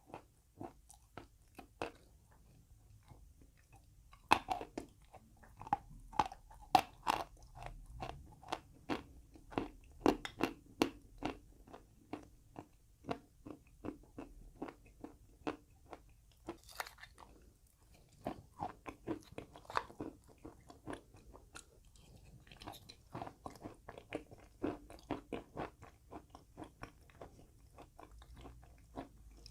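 Close-miked biting and chewing of chalk: sharp crunchy bites and runs of crisp chewing crunches, two or three a second, with short pauses in between.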